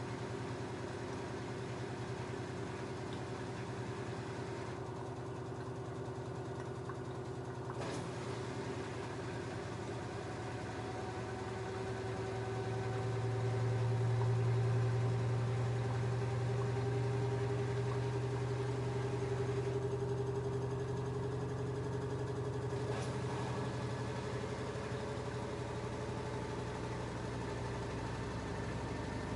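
LG F10A8HDS5 washing machine running, a steady motor hum whose pitch drifts slowly. It swells a little about halfway through, with two faint ticks along the way.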